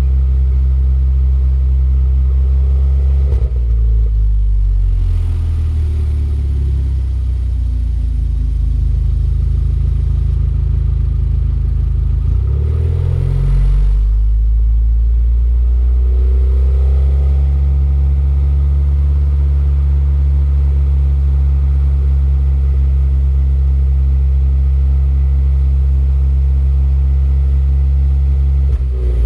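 Car engine and exhaust running at a steady low drone while driving. The engine note changes briefly about three and a half seconds in, again around twelve to fourteen seconds in, and near the end.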